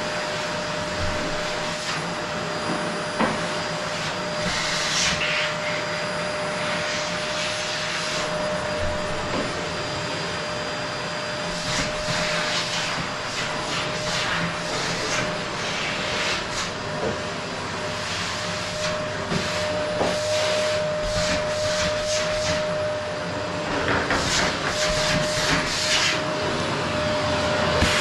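Qilive vacuum cleaner running, a steady rush of air with a thin whine held underneath and repeated short surges of higher hiss.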